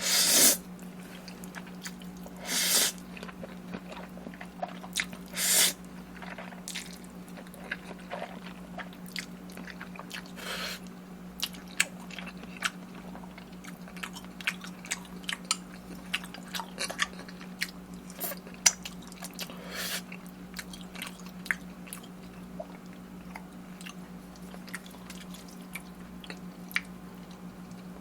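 Close-miked eating: three louder bites in the first six seconds, then steady chewing with many small wet clicks and smacks. A steady low hum runs underneath.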